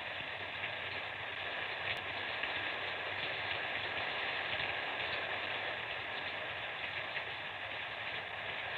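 Light rain falling steadily, an even hiss with no high end, from an old mono film soundtrack.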